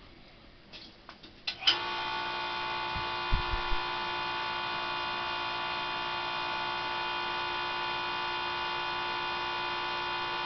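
A few faint clicks, then a steady electrical hum with a buzzy edge switches on suddenly and holds at one pitch, with a couple of low thumps a second or two after it starts.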